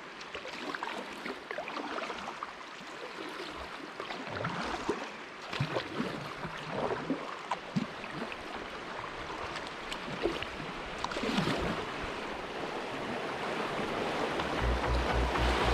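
River water rushing and splashing around a kayak as it runs shallow rapids, with scattered gurgles and splashes. A steady musical beat comes in near the end.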